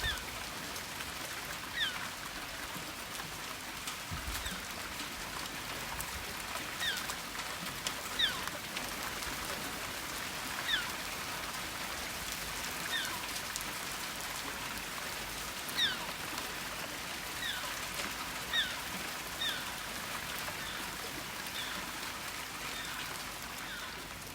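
Steady rain falling, with a bird repeatedly giving short chirps that fall in pitch, one every second or two.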